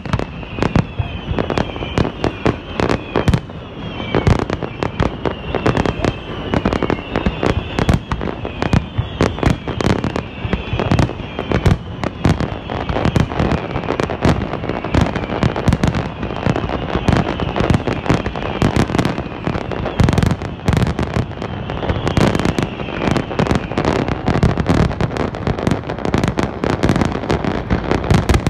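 Fireworks display firing a rapid, unbroken barrage of bangs and crackling bursts, many each second. Short high whistles falling in pitch recur among the bangs, mostly in the first half.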